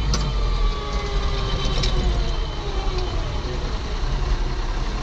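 Ford TW tractor's diesel engine running steadily, with a faint whine that drifts in pitch and a few light clicks.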